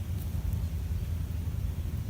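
Steady low rumble with a faint hiss, the unbroken background of an outdoor field recording, with no distinct events.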